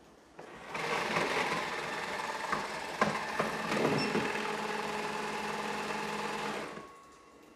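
Narwal Freo Z Ultra robot vacuum-mop's base station running its mop self-cleaning cycle: a steady mechanical running sound with a sharp click about three seconds in. It starts about half a second in and cuts off about a second before the end, as self-cleaning finishes.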